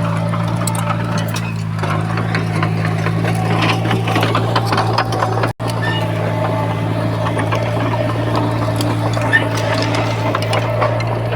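Diesel engine of heavy earthmoving machinery running steadily, with frequent metallic clicks and rattles over the drone. The sound cuts out for an instant about halfway through.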